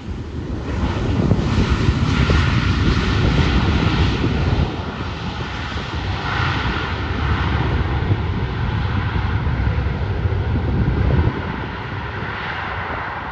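Airliner's engines rumbling loudly as it passes, with a faint steady whine over the rumble. The noise swells in the first second and eases off in two steps, about four and a half seconds in and again near the end.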